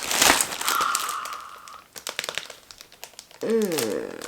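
Plastic packaging crinkling and rustling as a haul parcel is handled and opened, dense at first and then thinning to scattered crackles. A short pitched sound that slides down in pitch comes near the end.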